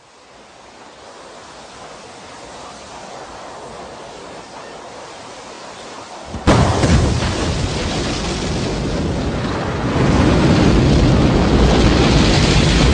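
Rocket launch: a rushing hiss swells up, then about six and a half seconds in it breaks into a sudden loud, heavy rumble of the rocket engines. The rumble gets louder again about ten seconds in.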